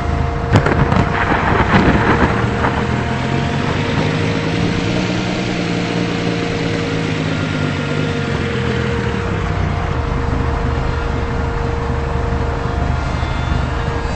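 Steady vehicle running noise, with a few sharp knocks in the first couple of seconds and a swell near the middle that rises and then falls away.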